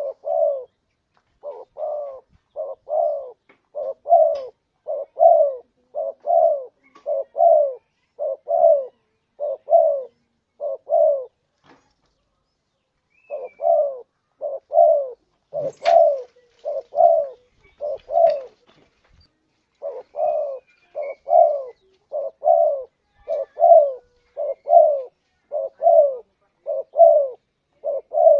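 Spotted dove (tekukur) cooing over and over in its repeated two-part phrases, the voice of a contest bird played as a lure call to draw wild doves. There is one short pause near the middle and a single sharp click partway through.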